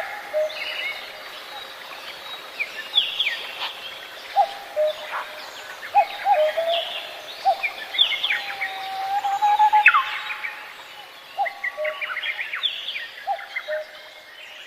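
Birds chirping and calling: many quick high chirps that sweep downward, mixed with repeated short lower notes, one of them held longer near the middle.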